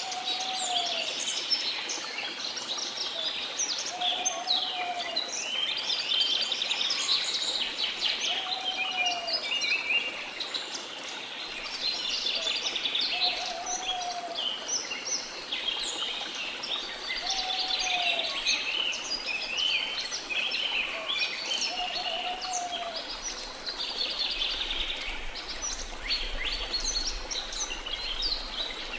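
Dense chorus of rainforest birds chirping and trilling without a break. A lower call that rises and falls repeats about every four seconds. A faint steady rush of falling water sits underneath.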